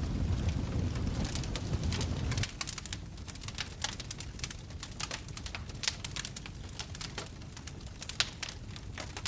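Wood fire in a fireplace crackling, with frequent sharp pops and snaps. A low rumble under the crackles drops away about two and a half seconds in.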